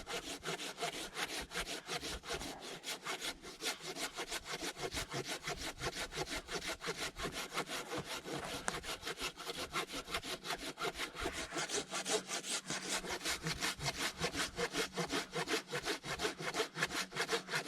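Silky Zubat hand pruning saw cutting through a thick fallen log of about 10 to 12 inches, in steady rapid back-and-forth rasping strokes that never break. The log is at the limit of what the saw is made for.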